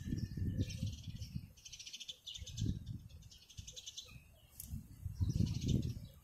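Small birds chirping in short, rapid trills several times, over irregular low rumbling.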